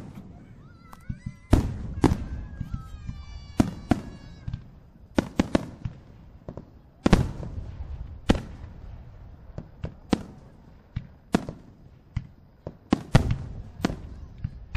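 Aerial firework shells bursting: an irregular run of sharp bangs, some coming two or three in quick succession, each trailing off in echo.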